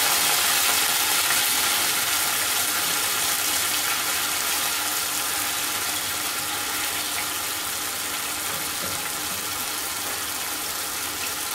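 Minced meat and garlic sizzling steadily in hot oil in a wok, the sizzle easing off a little over the seconds.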